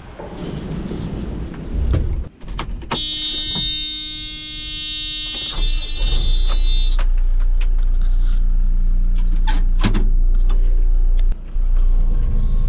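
A loud, steady buzzer-like tone lasting about four seconds, followed by the steady low rumble of an engine running.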